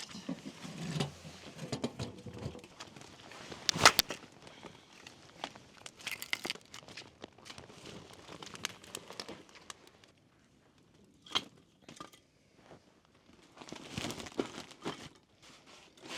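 Crinkling and rustling with scattered light clicks, as things are handled close by, and a sharp knock about four seconds in.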